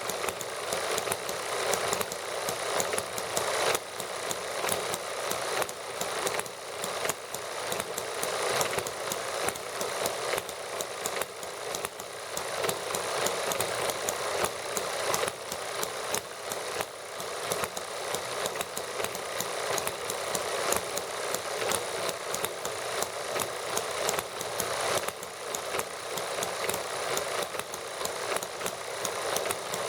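Small model gasoline engines running steadily together, a fast stream of even firing clicks.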